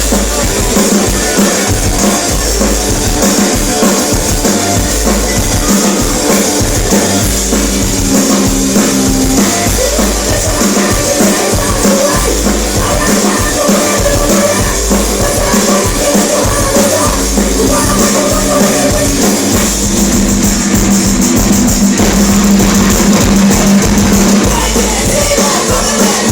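Loud live punk rock band playing, with a pounding drum kit and heavy bass; it gets a little louder in the last few seconds.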